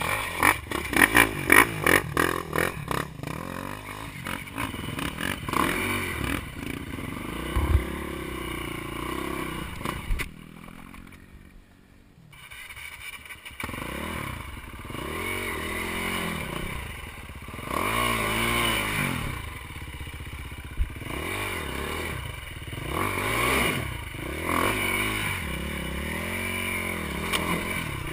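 Dirt bike engine revving up and down over and over while riding off-road. Sharp clattering and scraping sounds come in the first few seconds. The engine drops low about ten seconds in, then picks up and revs again.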